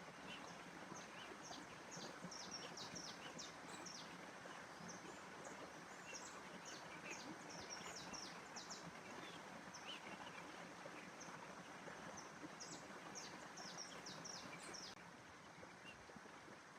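Small birds chirping in quick bursts of short high notes over a faint, steady rushing background of outdoor ambience. The chirping stops near the end.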